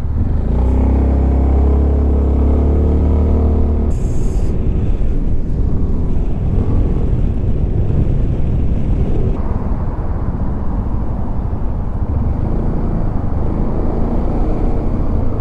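Suzuki Burgman 400 ABS scooter's single-cylinder engine and exhaust running at speed, with a strong, steady low engine note for the first few seconds that then sinks into wind and road noise. A brief hiss comes at about four seconds.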